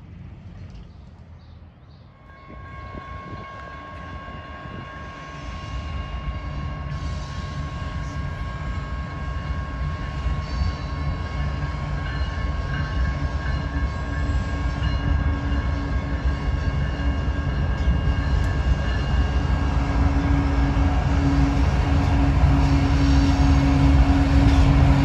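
Train approaching, its low rumble and steady engine tones growing steadily louder from about two seconds in.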